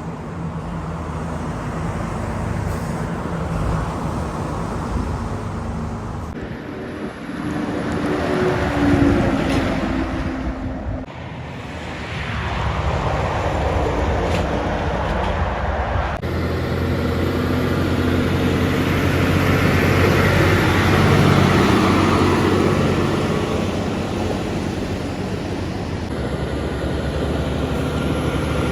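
Heavy trucks driving past on a road, their engines running under steady road and traffic noise, the sound changing abruptly several times.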